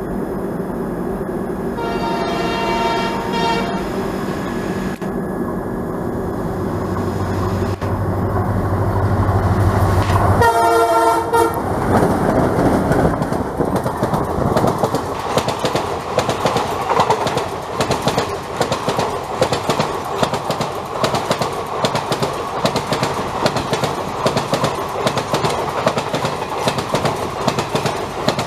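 Express train hauled by twin ALCo diesel locomotives passing at speed. The horn sounds twice: briefly about two seconds in, then louder about ten seconds in as the locomotives' low engine drone goes by. After that the coaches' wheels make a long, steady clatter over the rails.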